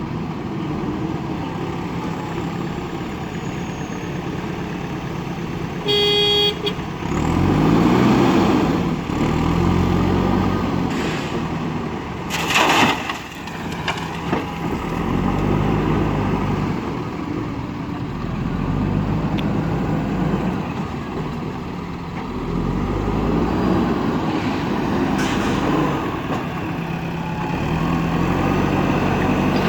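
JCB backhoe loader's diesel engine running and revving up and down several times as it works. A horn sounds briefly about six seconds in, and a short loud rush of noise comes about twelve seconds in.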